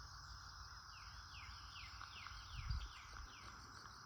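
A bird sings a quick run of about seven descending whistled notes over a steady chorus of crickets. A brief low thump comes partway through.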